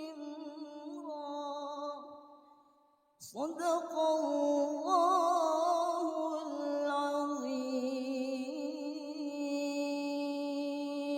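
A woman's voice reciting the Quran in melodic tilawah style, drawing out long ornamented notes with a wavering, trilled pitch. One phrase fades away about two seconds in, and after a short pause a new long phrase begins and is held to the end.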